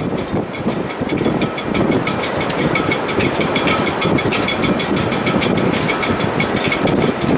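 Strong wind in a sailboat's shrouds in heavy weather: a steady rushing roar with a faint high whistle of the rigging over it.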